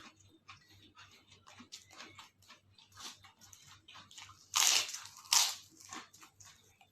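A person chewing crunchy food close to the microphone, with small crackles throughout and two loud crunching bites a little over halfway through.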